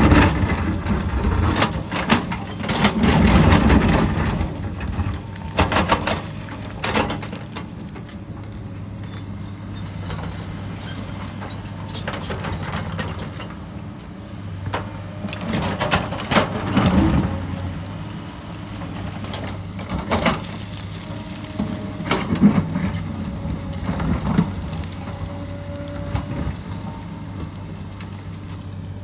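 Hyundai excavator's diesel engine running steadily, with repeated irregular knocks and scrapes from the digging. These are loudest in the first few seconds and again past the middle.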